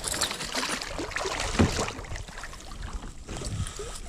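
Handling noise on a fishing kayak: irregular knocks and rustles against the hull and gear, with the strongest knock about one and a half seconds in, over wind noise on the microphone.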